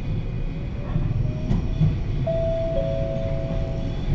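Kamikochi Line electric train running, heard inside the carriage: a steady low rumble of wheels on the track. About halfway through, a high steady squeal sets in, soon joined by a second, slightly lower tone.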